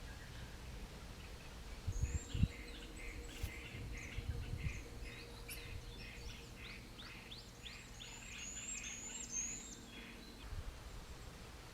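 Birds calling in a run of short repeated chirps and quick rising whistles, over a faint steady low hum, with a few low thumps about two seconds in.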